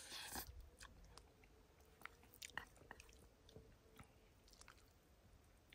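Faint chewing of a mouthful of noodles, with scattered light clicks and scrapes of a carved wooden spoon in a metal pan.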